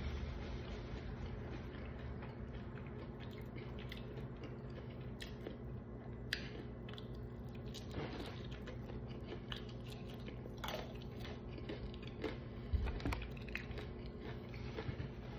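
A person chewing and biting fried chicken, with many small mouth clicks and smacks, over a steady low hum. A louder low thump comes near the end.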